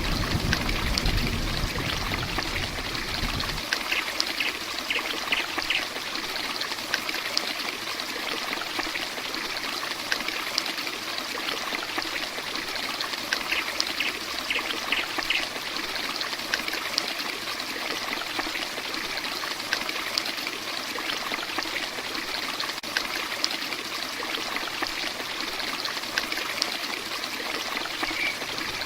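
Heavy rain falling steadily, a dense hiss of drops and running water. A low rumble fades out about three seconds in, and two short runs of faint high chirps come through the rain.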